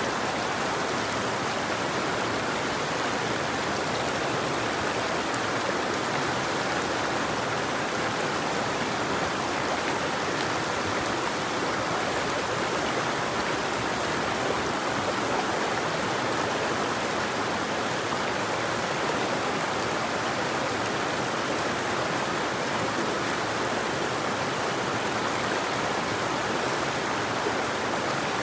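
River water flowing steadily, a constant rushing without breaks.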